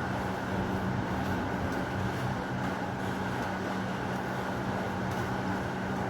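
Steady heavy rain as an even hiss, with a constant low hum underneath and no thunderclap.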